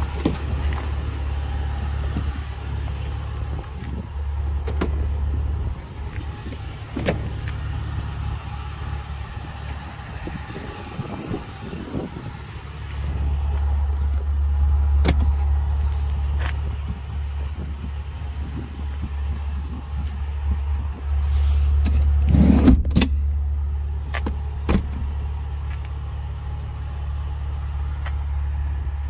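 Toyota FJ Cruiser's 4.0-litre V6 idling with a steady low hum that weakens for a few seconds in the first half. Scattered clicks and knocks of the door and interior being handled, with a louder cluster of knocks about two-thirds through.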